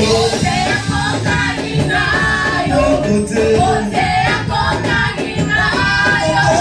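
Church choir and band playing a gospel worship song, with sung lines over a steady beat.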